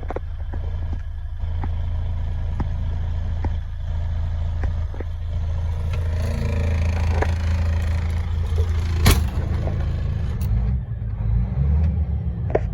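DAF CF85.460 tractor unit's diesel engine running steadily, growing a little louder for a few seconds past the middle, with a sharp click about nine seconds in.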